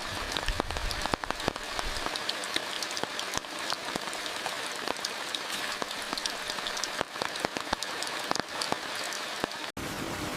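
Heavy rain falling, with many separate drops striking a surface close by as sharp little taps over the steady hiss. The sound cuts out for an instant near the end, then carries on.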